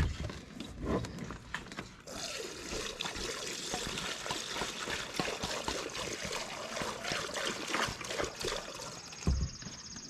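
Diesel fuel pouring from a fuel can into a garden tractor's fuel tank, a steady gushing stream that starts about two seconds in after a few knocks of the can.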